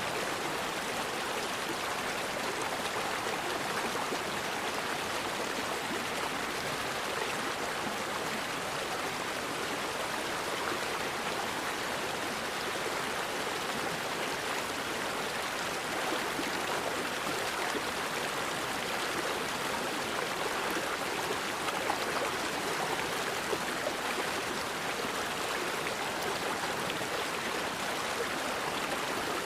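A forest river flowing, a steady rush of water with no change through the stretch.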